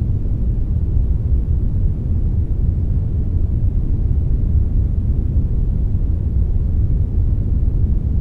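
Steady synthetic brown noise, a deep even rumble-like hiss with most of its weight in the low end and only a faint high hiss above it, unchanging throughout.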